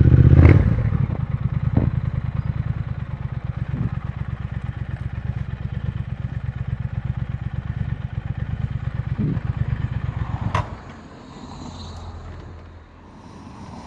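Triumph Speed Twin 1200 parallel-twin engine idling steadily with an even pulse, its bad idle now cured by fuel injector cleaner. About ten and a half seconds in, the engine is switched off and stops abruptly, with a click.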